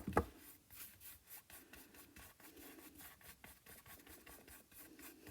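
Paintbrush stroking thin acrylic paint onto a canvas: a run of faint, quick, scratchy brush strokes, a few a second.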